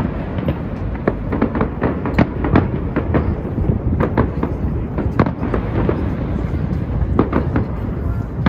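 Firework display going off: a rapid, irregular string of cracks and bangs over a continuous low rumble, with several bangs every second.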